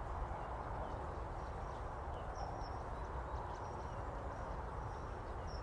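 Outdoor woodland ambience: a steady low rushing noise with a few faint, short bird chirps scattered through.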